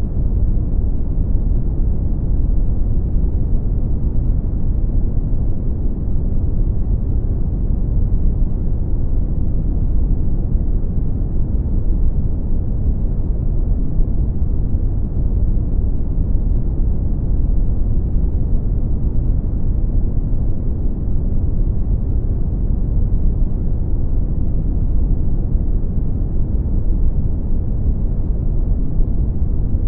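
Steady brown noise: a deep, even rumble of random noise, strongest in the lows and fading toward the highs, with no change.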